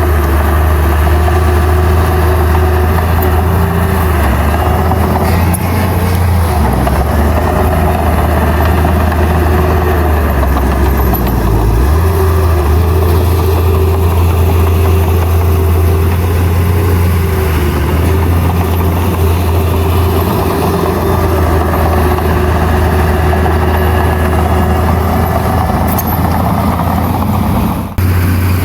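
Heavy diesel engine of earthmoving machinery running steadily with a deep drone. Its low note shifts for a few seconds partway through. The sound drops out for an instant near the end.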